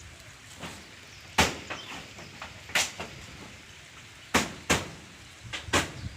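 Hammer blows, about five loud knocks and a few lighter taps, spaced unevenly about a second or more apart, from roofing being fixed onto a field hut.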